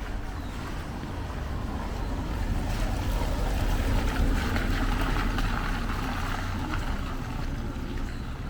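Steady wash of rainy street ambience with a low rumble of wind on the microphone, swelling louder through the middle and easing off near the end.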